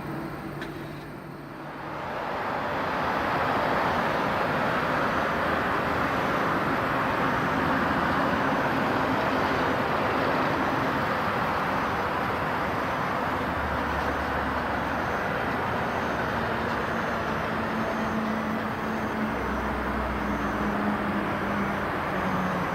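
Jet airliner on landing approach passing low overhead: a loud, steady engine rush that swells in about two seconds in, with a low tone slowly falling in pitch in the second half.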